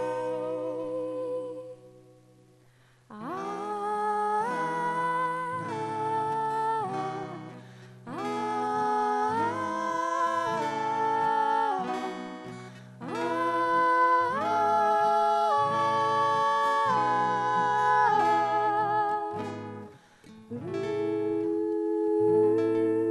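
Wordless humming of a melody over acoustic guitar, in phrases of a few seconds with short breaks between them. The music drops out briefly about two seconds in before the next phrase starts.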